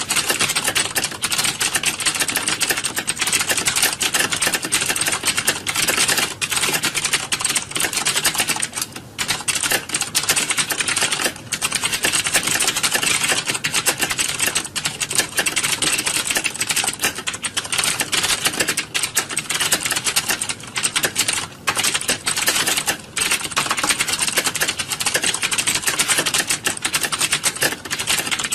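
Many computer keyboards typed on at once, a dense, continuous clatter of overlapping key clicks, as in an exam hall full of candidates sitting a typing test.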